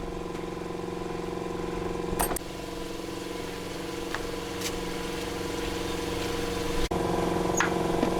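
A small engine running steadily at an even idle, with a few light metallic clicks.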